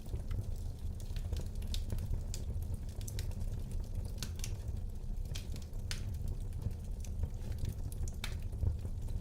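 Fire burning in a fireplace: irregular crackles and pops over a steady low rumble of the flames.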